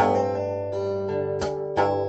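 Guitar playing a melody over bass notes, with strummed chords sounding at the start and twice more about a second and a half in.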